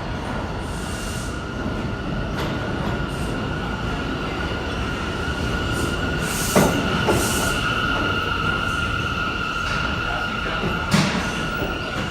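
New York City subway train running on the rails with a steady high-pitched wheel squeal over the rumble of the cars. There are two sharp clacks, one about six and a half seconds in and one near the end.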